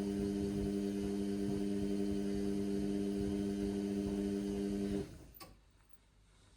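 Indesit washing machine humming steadily, overloaded with suds. The hum cuts off about five seconds in with a click, leaving near silence.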